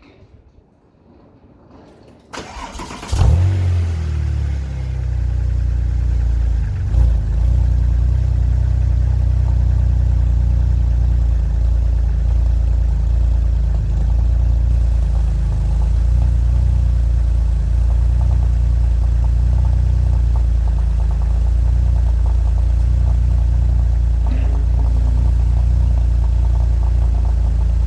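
Cold start of a 2003 Porsche 996 Turbo's twin-turbo 3.6-litre flat-six, breathing through a Fabspeed Maxflow exhaust with catalytic converters: the starter cranks briefly, the engine catches with a loud flare about three seconds in, surges once briefly near seven seconds, then settles into a steady idle.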